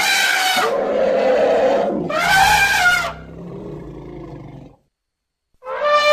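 Elephant trumpeting calls for a giant elephant creature: a loud call at once, then a second with falling pitch, followed by a quieter low rumble. After a brief silence another trumpet call begins near the end.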